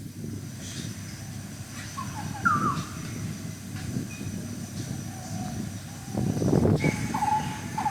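Wild birds calling over a low rumbling outdoor noise: a short falling call about two and a half seconds in, then a run of repeated notes, about two a second, starting near the end. The low rumble swells briefly about six seconds in.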